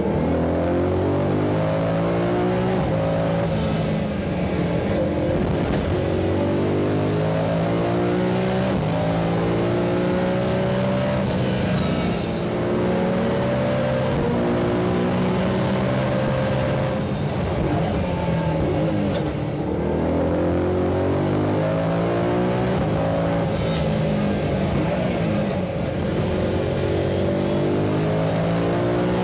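BMW M3 race car engine running hard on track, its pitch climbing under acceleration and dropping back at gear changes and braking, several times over.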